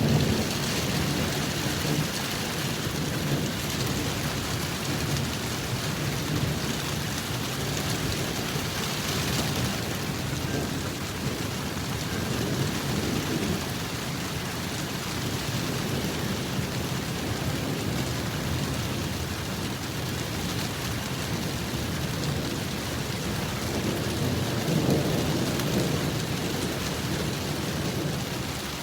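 A thunderstorm: steady heavy rain with thunder rumbling, the rumble swelling near the start, again a third of the way in, and more strongly near the end.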